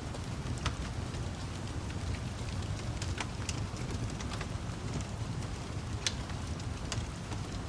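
Crackling wood fire with scattered sharp pops at irregular intervals, over a steady hiss of rain and a low rumble.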